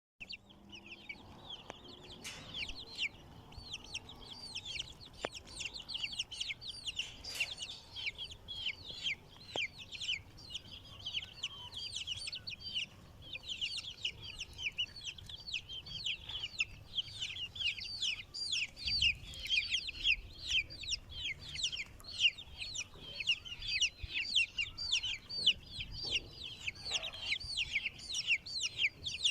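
Baby chicks peeping continuously: a dense stream of quick, high chirps from several birds at once, overlapping.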